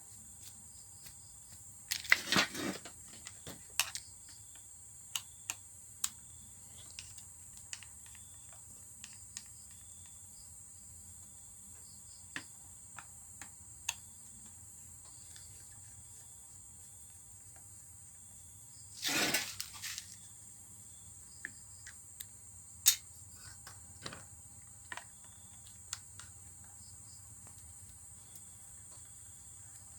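Small clicks, taps and short scrapes of hand tools and parts as the carbon brushes are taken out of an electric concrete hammer drill, with two louder rustling scrapes about two seconds in and again near the middle. Under it runs a steady high chirring of insects.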